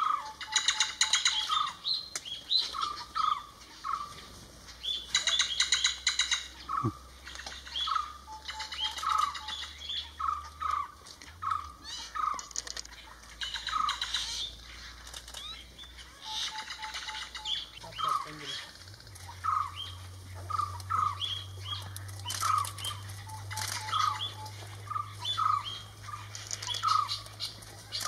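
Birds calling: a short note repeated about once a second, broken every few seconds by a burst of rapid rattling calls.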